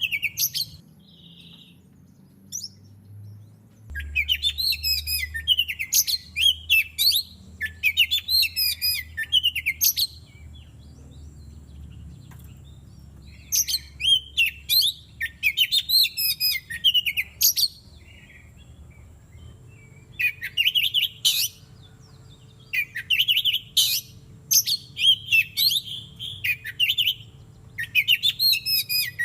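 Oriental magpie-robin singing in bouts of fast, varied whistles and chattering notes, with short pauses between bouts.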